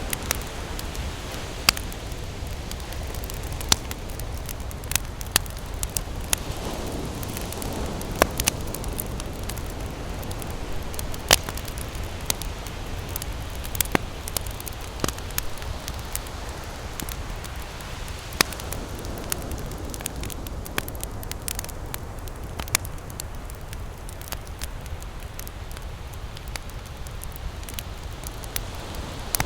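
Wood campfire crackling, with irregular sharp pops over a steady low rush of ocean surf.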